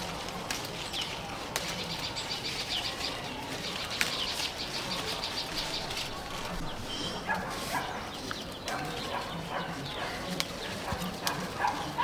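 Outdoor rural ambience with bird calls. About a second and a half in, a rapid, high ticking trill begins and runs for several seconds, followed by scattered short calls.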